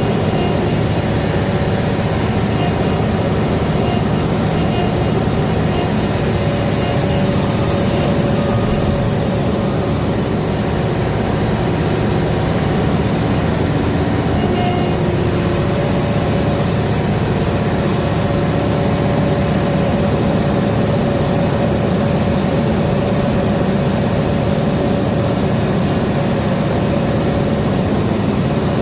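Cat 395 hydraulic excavator's diesel engine running steadily under working load while loading trucks.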